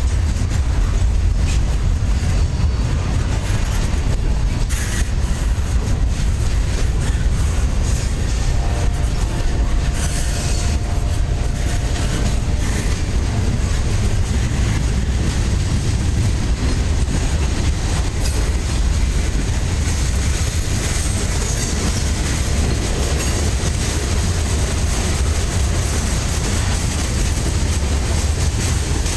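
Freight cars of a mixed train (double-stack container cars, tank cars, covered hoppers) rolling past close by: a steady rumble of steel wheels on the rails, with a faint thin wheel squeal at times.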